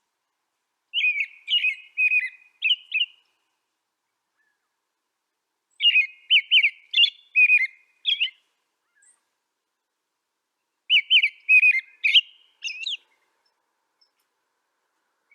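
A songbird singing three short phrases of quick, warbled notes, about five seconds apart, with silence between the phrases.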